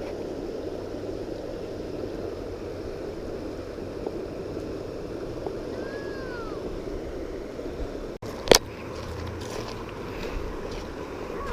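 Creek water running, a steady rush. About eight and a half seconds in, a single sharp click is the loudest sound.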